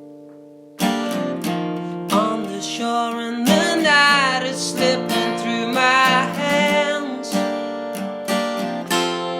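Acoustic guitar intro: a chord rings and fades, then strummed chords start about a second in and carry on steadily.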